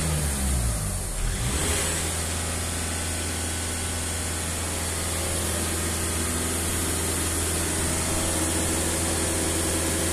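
VW Passat diesel engine with its revs dropping back over the first two seconds after a throttle blip, then idling steadily over a constant high hiss. The engine is being revved and idled to blow out the diesel particulate filter during an on-car cleaning.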